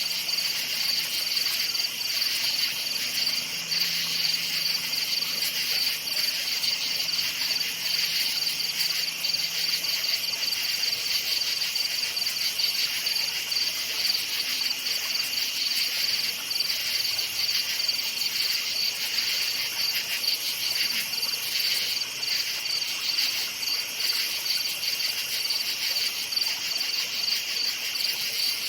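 A steady chorus of crickets chirping, a dense pulsing trill with no break.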